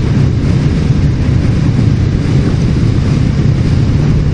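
Harley-Davidson cruiser's V-twin engine running steadily at riding speed, with wind noise over it. The bike is on its stock exhaust, which the rider calls weak sounding.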